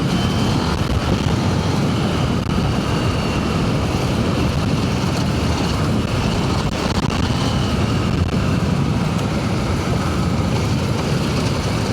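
Adventure motorcycle engine running steadily while riding along a dirt trail, with a dense low rumble that holds at an even level.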